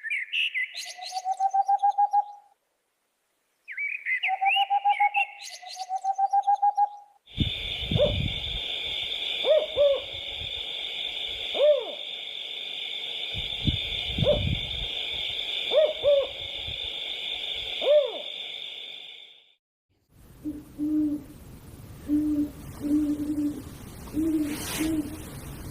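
Bird calls in separate short clips: a rising whistle followed by a pulsed trill, heard twice; then short hoots about every two seconds over a steady high hiss; then a quicker run of lower hoots near the end.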